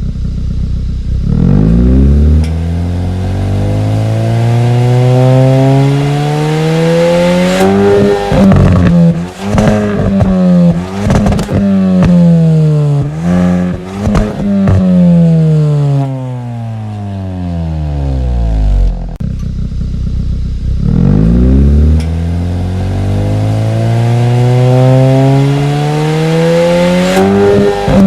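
Exhaust note of the 2021 Hyundai i20 N's turbocharged 1.6-litre four-cylinder engine being worked hard. It climbs steadily in revs, then goes through quick rises and drops in pitch with sharp cracks from the exhaust, falls away in a long deceleration, and climbs in revs again near the end.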